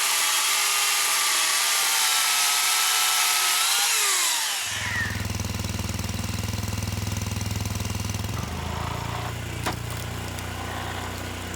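Chainsaw running at high revs with a steady high whine, its pitch falling as the throttle is let off about four seconds in. Then a low, steady engine rumble, like an engine idling, with one sharp click near the end.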